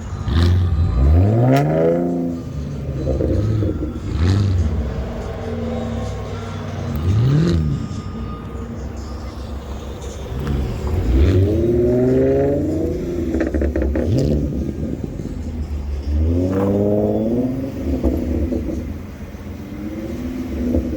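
A car engine idling and being revved about five times, each rev rising in pitch and dropping back to idle.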